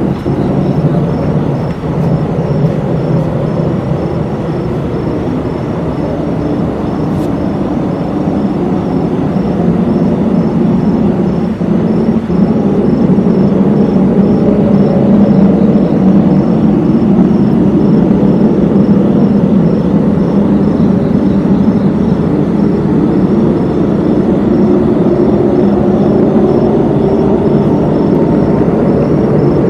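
An unidentified loud, steady low drone with a wavering pitch that swells louder about twelve seconds in. This is the unexplained noise that residents reported, one that went on for a long while, stopping and starting.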